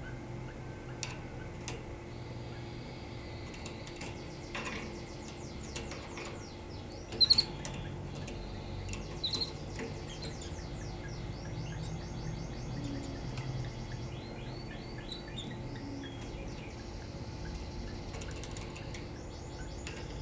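Canary singing: phrase after phrase of rapid, evenly repeated trills, with two louder sharp notes about seven and nine seconds in, over a low steady hum.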